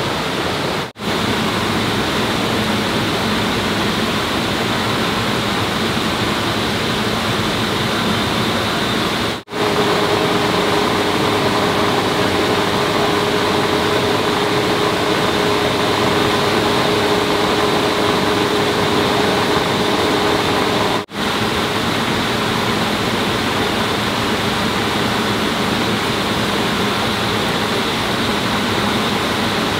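Steady, loud rushing water, like a fast stream or small waterfall. From about ten seconds in, a steady hum joins it for about eleven seconds. The sound breaks off briefly three times, at cuts.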